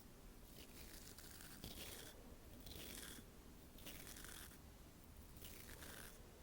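Soft, scratchy brushing strokes close to the microphone, about one a second with short gaps between.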